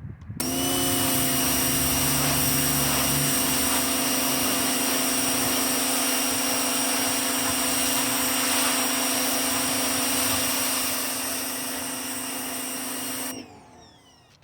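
Greenworks 2000 psi electric pressure washer running steadily, its motor and pump tone under a broad hiss of spray. It starts abruptly about half a second in and shuts off near the end, its pitch sliding down as the motor winds down.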